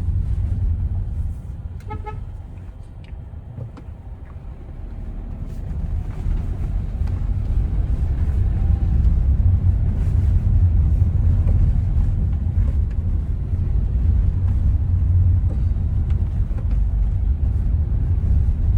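Car being driven on a rough gravel road, heard from inside the cabin: a steady low road and tyre rumble that eases a couple of seconds in, then builds again as the car picks up speed. A short horn toot sounds about two seconds in. No metallic clinking is heard: the rattle from a bone lodged behind the fender liner has been cured.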